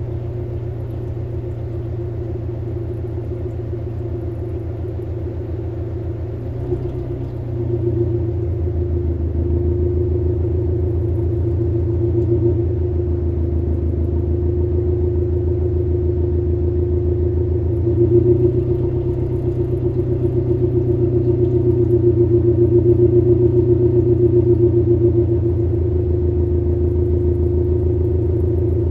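Subaru Levorg's turbocharged boxer four-cylinder idling steadily through an STI performance muffler, a low rumbling exhaust note. The idle note deepens and gets a little louder about eight seconds in and again about eighteen seconds in.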